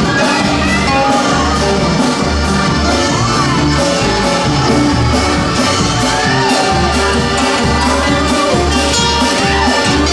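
Live band playing an instrumental passage of a song, with a pulsing bass line and a few shouts from the crowd.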